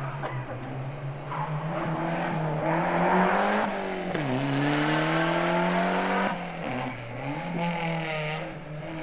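Rally car engine revving hard, its pitch climbing and then dropping sharply at gear changes about four seconds in and again near six and seven seconds.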